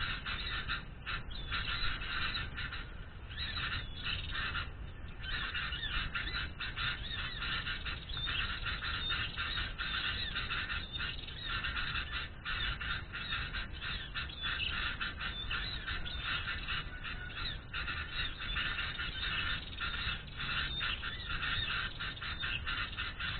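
Dense, continuous chattering of many small birds, calls packed rapidly together with no pause, over a steady low rumble.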